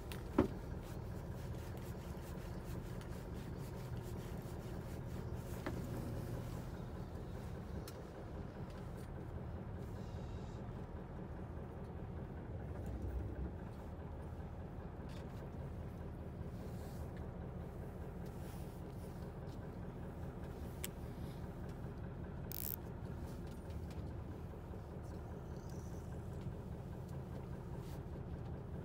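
Fishing boat's engine running steadily with a low hum, with a sharp knock about half a second in and a few faint clicks.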